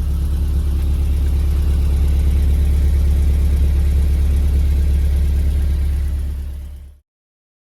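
Honda S2000's four-cylinder engine idling through a twin-muffler stainless cat-back exhaust, a steady low exhaust note that fades out near the end.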